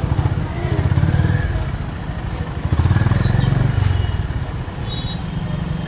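Honda CB350 RS's single-cylinder engine running with a rapid low pulsing exhaust note, getting louder twice, about a second in and again around three seconds.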